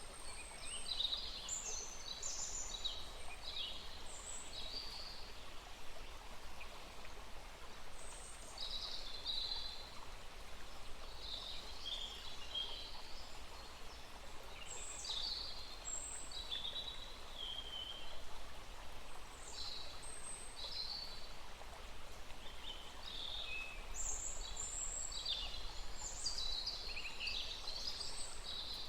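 Small forest stream running steadily, with many birds chirping and calling over it in short bursts throughout.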